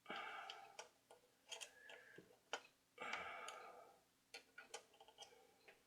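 Faint scattered clicks and short scrapes of a small screwdriver working at a stubborn clip on a record player's motor, with two brief scraping rushes, one at the start and one about three seconds in.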